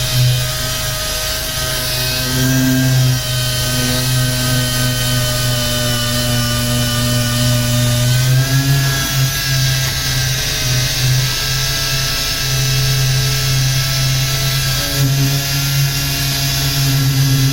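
Power sander running steadily on car body paint: a constant motor whine whose pitch shifts slightly about halfway through.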